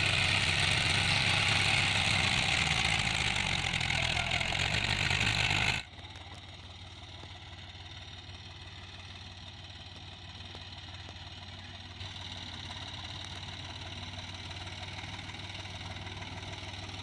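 Swaraj 744 tractor's diesel engine running loudly for about six seconds, then dropping suddenly to a quieter, steady idle.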